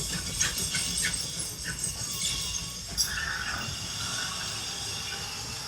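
Alaska Railroad passenger train rolling on the rails as it departs: a steady low rumble with scattered clicks and squeaks.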